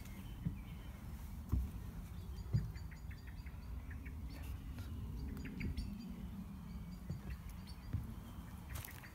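Small birds chirping and calling in short, high notes, over a steady low rumble with two dull thumps about one and a half and two and a half seconds in, from a handheld camera being carried on foot.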